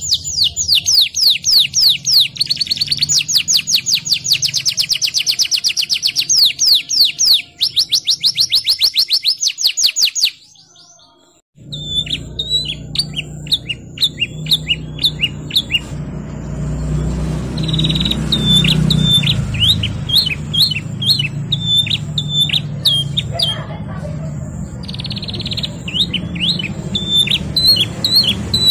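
Domestic canary singing: long, very fast rolling trills of high repeated notes, a brief break about ten seconds in, then slower series of sharp repeated chirps over a low background rumble.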